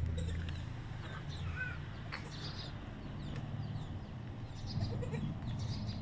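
Faint farmyard sounds: a goat bleats briefly near the end, and small birds chirp here and there.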